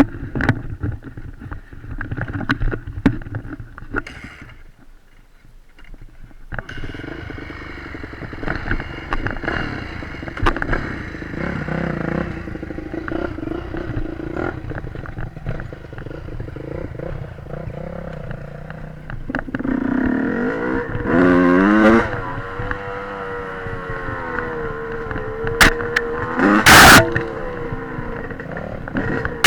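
Dirt bike engine running, its pitch rising and falling as it is revved about two-thirds of the way through, then holding a steady note. A loud, short burst of noise comes near the end.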